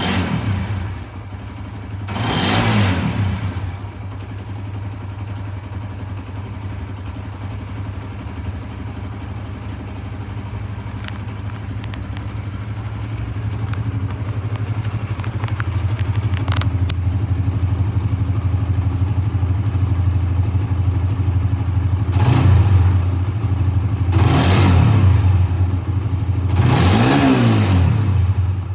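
Suzuki GSX-S150's single-cylinder engine idling steadily, blipped to a quick rev about two seconds in and three times near the end.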